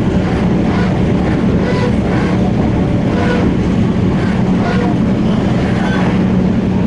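MTR Tung Chung Line K-train running at speed, heard from inside the carriage: a steady rumble of wheels on rail with a constant low hum.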